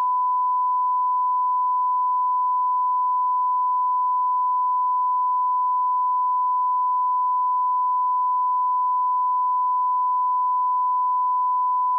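Steady 1 kHz sine-wave line-up tone at −18 dB full scale, one unbroken pure pitch held at constant level: the reference tone of an audio channel test.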